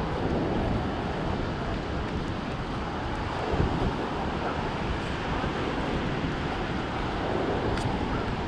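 Wind buffeting the action camera's microphone, with steady surf washing onto the beach.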